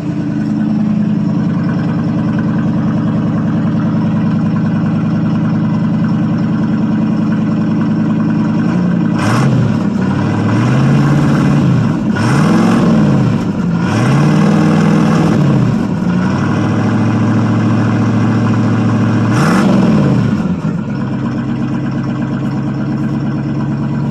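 1979 Chevrolet C10 pickup's engine idling through a glass pack muffler, its throttle blipped four times near the middle, each rev rising and falling back to idle.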